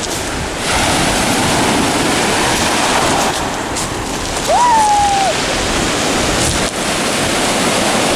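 Rough sea surf: waves breaking in a steady, loud rush, with wind buffeting the microphone. About halfway through, a brief high cry rises and then falls away.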